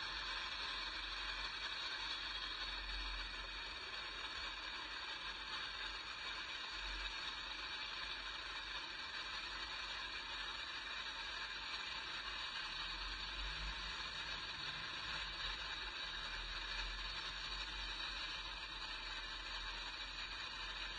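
Freight train of loaded flatcars rolling past on the rails: a steady hiss of wheels on track with rattling and clattering, and a low rumble that comes and goes.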